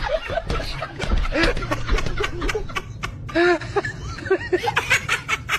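Short bursts of high-pitched giggling and snickering laughter, a string of quick rising-and-falling 'hehe' sounds, mixed with many sharp clicks.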